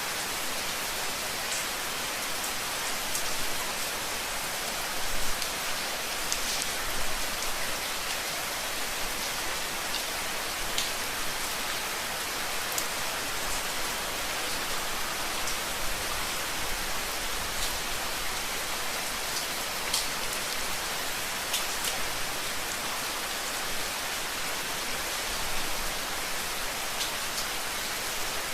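Steady rain falling on a surface, an even hiss with scattered individual drops ticking clearly above it.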